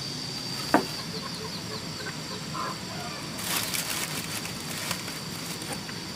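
Chickens clucking softly over a steady high-pitched whine, with a sharp knock about a second in and a second of rustling noise around the middle.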